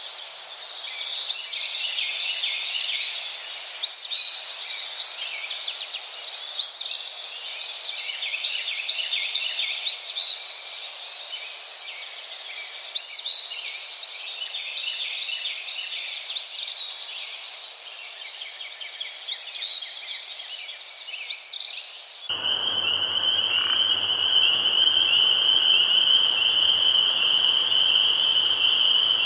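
A chorus of birdsong with a short arching call repeated about once every second and a half over a hiss. About 22 seconds in it cuts abruptly to a steady high-pitched drone over a broad hiss.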